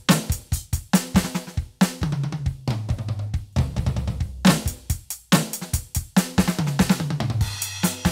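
Roland TD-17KVX electronic drum kit played through its module: a steady groove of kick, snare, hi-hat and cymbal strikes, with deep drum tones sounding through the middle and near the end.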